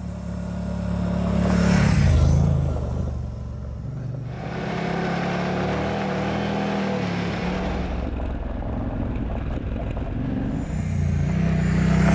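Moto Guzzi Stelvio's transverse V-twin engine running on a dirt trail, its sound swelling louder about two seconds in and again near the end.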